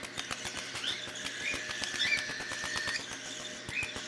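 Young cockatiels giving a few short, soft chirps, over a lot of faint light clicking.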